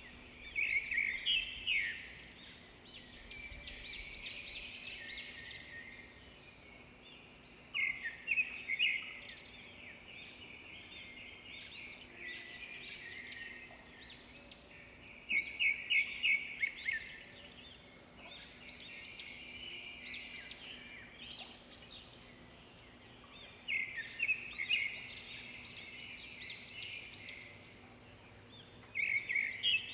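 A songbird singing in repeated phrases, one roughly every seven or eight seconds, each opening with a loud run of rapid high notes and running on into softer twittering. Fainter chirps fill the gaps between phrases.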